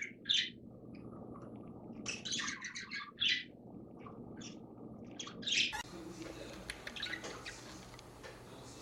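Budgerigar chirping: a run of short, high chirps in small clusters over the first six seconds. After that, faint scattered clicks over a low background hiss.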